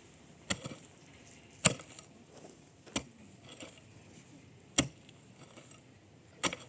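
Five sharp knocks or strikes, spaced about a second or two apart.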